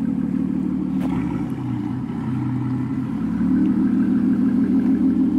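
Aston Martin Vanquish S's AM29 V12 engine idling steadily through its quad exhausts after start-up. It runs a little louder and fuller from about three seconds in.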